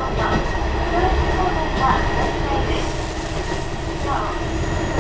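Hisatsu Orange Railway diesel railcar running on the rails with a steady rumble. A high-pitched squeal from the wheels starts a little past halfway in and stops shortly before the end.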